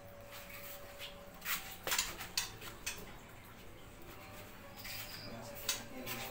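Cage feeders and fittings being handled in a wire canary cage: a cluster of sharp clicks and knocks about one and a half to three seconds in, and another near the end.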